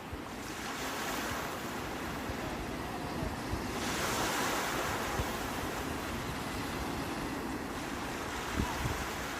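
Sea waves washing onto the shore, one wave's rush swelling louder about four seconds in, with wind buffeting the microphone.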